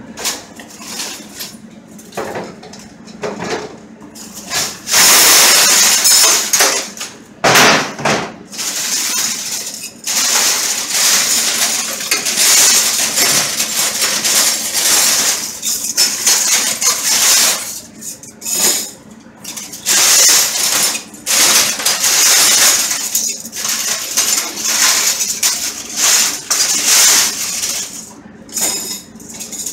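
Stainless steel cutlery clattering and jangling as handfuls are scooped from a pile on a steel counter and dropped into cutlery cylinders in a dish rack: rapid, irregular metallic clinks and rattles.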